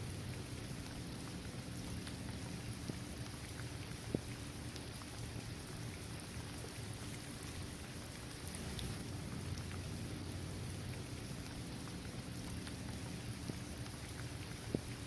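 Steady rain falling on a basketball court, trees and grass, an even hiss with a few sharper single drop hits, one about four seconds in and another near the end.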